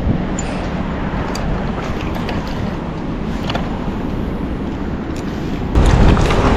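Steady rushing of flowing river water with wind on the microphone, turning suddenly louder near the end.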